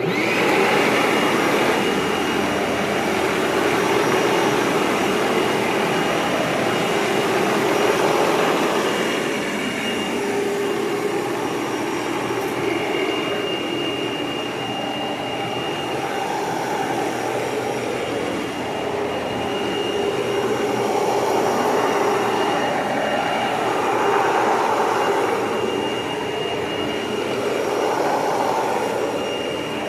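Hoover WindTunnel upright vacuum cleaner switched on and running: a steady rushing motor sound that starts suddenly, with a high whine that comes and goes and a level that swells and dips gently.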